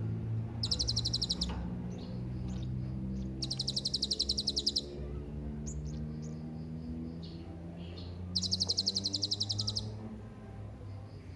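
Blue-crowned hanging parrot (serindit) calling: three high, rapid pulsing trills of about a second each, with a few short chirps between them, over a low steady hum.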